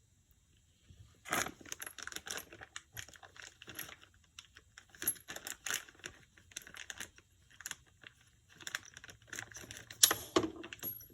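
Small metal parts of a power steering cylinder clinking and clattering as they are handled, starting about a second in. About ten seconds in comes one louder metal clank that rings briefly.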